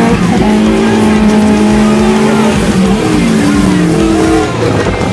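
Car engine pulling hard at high revs under acceleration, heard from inside the cabin. Its pitch climbs and drops back at gear changes, about two and a half and four and a half seconds in.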